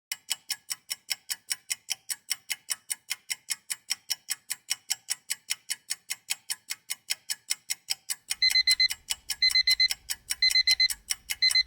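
Countdown timer sound effect: a clock ticking fast and evenly, about five ticks a second, then from about eight seconds in an alarm clock beeping in quick runs, four times about a second apart, over the ticking, as the time runs out.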